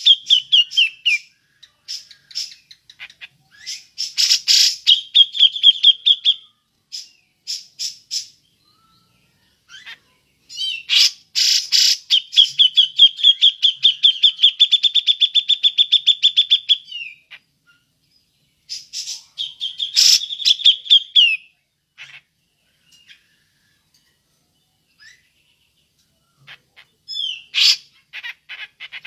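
Grey-cheeked bulbul (cucak jenggot) giving its 'ngepik' call: harsh chattering notes broken by fast trills of evenly repeated notes, three runs, the longest lasting about five seconds. The call is used as a lure to set other birds singing.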